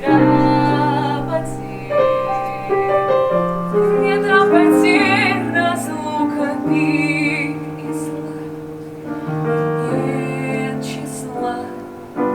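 Piano playing slow, held chords, with a singing voice coming in over them in the middle.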